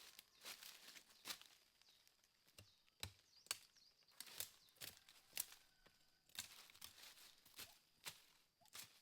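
Faint, irregular sharp knocks and crackles, roughly one or two a second, with a few louder ones.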